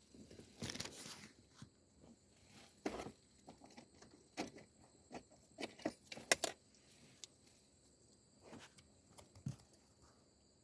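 Irregular clicks and short rustles, like something being handled close to the microphone, over a steady high chirring of insects.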